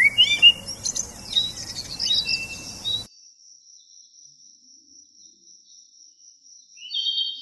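Several birds chirping and singing together in quick whistles and trills, cut off abruptly about three seconds in. Then a faint, steady, high pulsing trill, like an insect, with a short louder bird call near the end.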